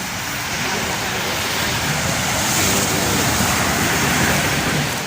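A loud engine running close by, its noise swelling to a peak about three to four seconds in and then easing off.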